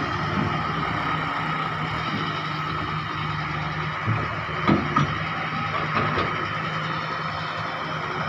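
Heavy hydraulic excavator's diesel engine running steadily under work, with a few short clunks a little past the middle.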